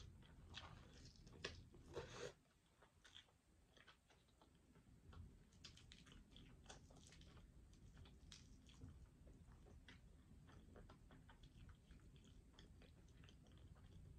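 Faint close-up chewing and biting on a fried chicken wing: soft wet mouth clicks and small crunches, a little louder in the first two seconds.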